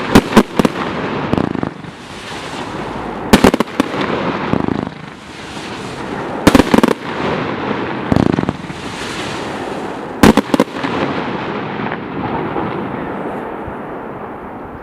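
Vivid Pyrotechnics Zeigelstein firework going off: a quick cluster of sharp bangs about every three to four seconds, with a steady noisy hiss in between, dying away near the end.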